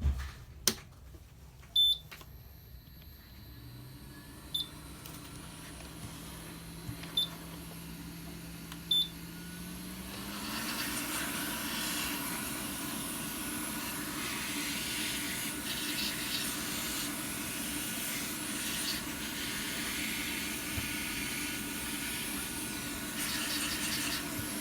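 Hot air rework station: four short high beeps as it is set, then its blower spins up with a hum that rises in pitch and, about ten seconds in, blows a steady hiss of air.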